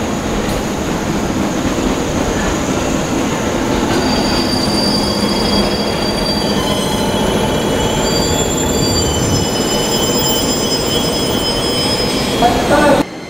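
JR 189-series express electric train rolling slowly past, with a steady rumble of wheels on rail. From about four seconds in, high-pitched wheel squeal rings over it. The sound drops off abruptly near the end.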